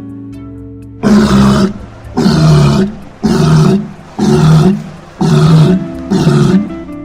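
Six loud, rough animal calls, about one a second, starting about a second in, over steady background music.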